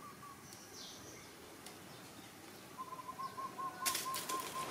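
A bird gives a quick run of about nine even, repeated notes, after a faint high falling chirp about a second in. From about four seconds in, louder rustling and crackling of dry leaf litter as feet move over the forest floor.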